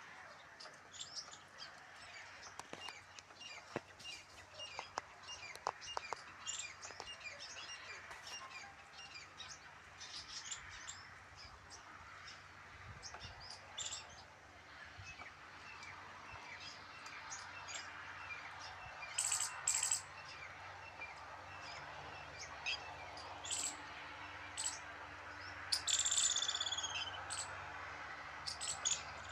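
Several wild birds chirping and calling, many short chirps overlapping. Louder calls come about two-thirds of the way in, and a run of falling whistled notes near the end.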